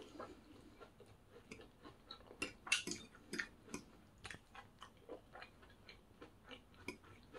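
Close-miked chewing of crunchy food: a quick, irregular run of crisp crackles and clicks, loudest about three seconds in.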